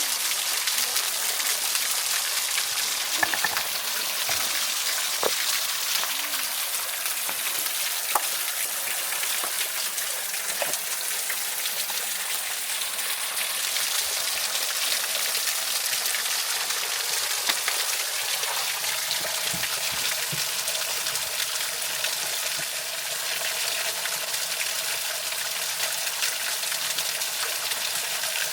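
Waterfall rushing: a steady hiss of falling water, with a few light clicks over it.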